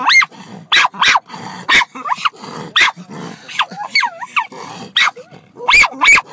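A dog barking repeatedly in short, sharp barks, with a few high whining yelps that slide up and down in pitch between them.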